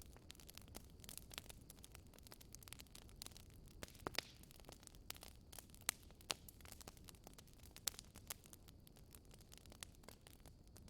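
Wood fire crackling faintly, with irregular snaps and pops over a low steady rumble. A few louder pops come about four, six and eight seconds in.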